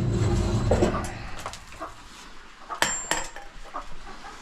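Metal coop scraper working a coop shield: noisy scraping in the first second, then scattered clicks and two sharp metallic clinks about three seconds in.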